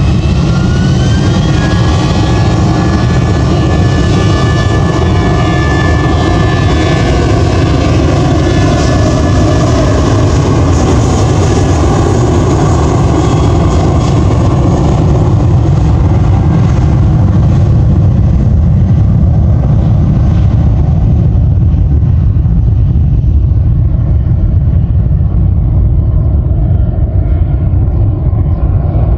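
Jet airliner engines on the takeoff run: a whine rises over the first two seconds and then holds under a loud, steady roar. In the second half the hiss fades as the aircraft climbs away.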